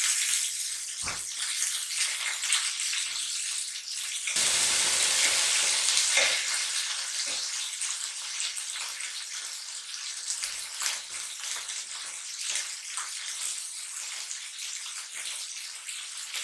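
Chicken breasts sizzling and crackling in hot oil in a skillet as the pieces are turned over with a fork. The sizzle gets louder about four seconds in.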